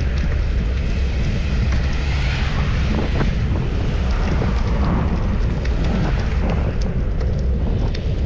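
Wind buffeting the microphone of a camera on a moving bicycle: a steady low rumble with a hiss above it and a few faint ticks.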